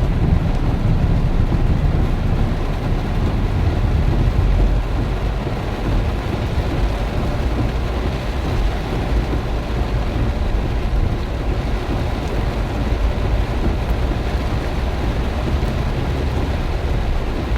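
Heavy rain with strong wind: a loud, steady rushing noise with a deep rumble, a little stronger in the first few seconds.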